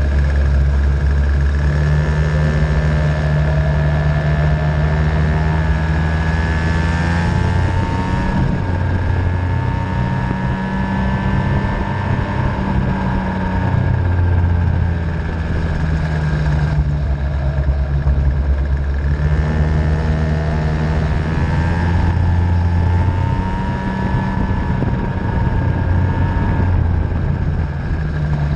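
A 50cc Venom racing engine running laps, its pitch rising and falling over and over as it revs up along straights and eases off into turns. A steady low rumble sits underneath.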